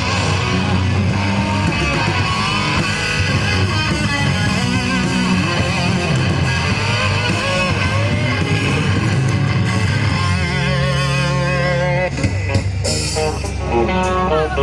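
Rock band playing live, with electric guitar to the fore; the playing drops back briefly about twelve seconds in.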